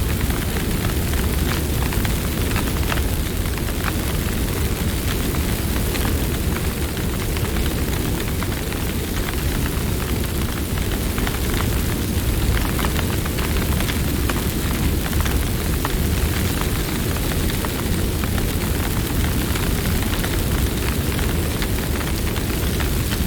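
Campfire burning steadily, a low rumble of flames under frequent small crackles and pops of burning wood.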